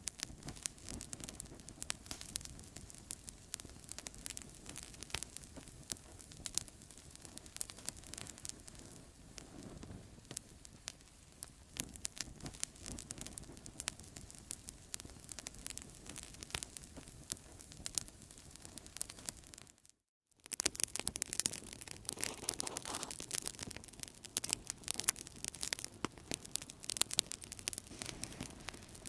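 Outdoor campfire crackling: many sharp pops and snaps over a steady low hiss. The sound drops out completely for a split second about two-thirds of the way through, then comes back louder.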